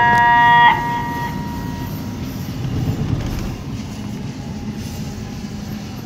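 A song's closing notes cut off under a second in. A passenger train then rolls in with a steady rumble of wheels on the rails.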